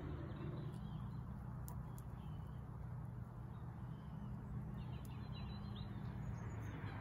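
Faint bird calls, a few short high chirps, over a steady low hum.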